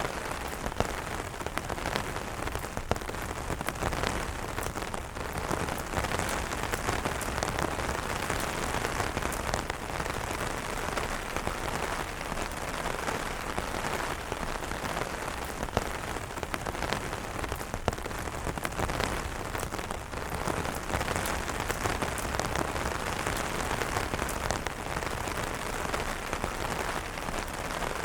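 Steady rain falling on an umbrella: an even hiss with many sharp separate drop hits scattered through it.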